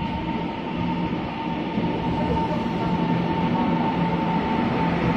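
Taiwan Railways electric multiple-unit train running out of the station: a steady rumble of wheels on rails with a thin, steady high whine, growing slightly louder.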